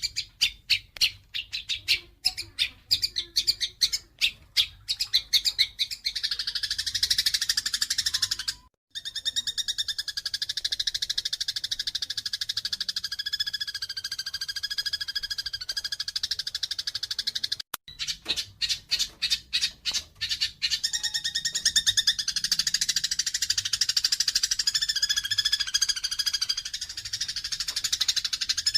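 Eurasian tree sparrows giving fighting calls. Rapid runs of sharp chirps, several a second, alternate with stretches of dense, continuous chattering. The sound cuts out completely twice, briefly, about a third of the way in and just past the middle.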